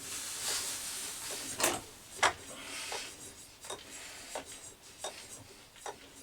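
Metal tools and parts being handled: a rubbing scrape, two sharp knocks, then light clicks at a slow, even pace.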